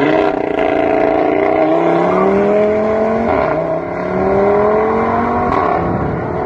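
Car engine accelerating hard, its pitch climbing steadily, with an upshift about three and a half seconds in and another near five and a half seconds, each followed by the pitch climbing again.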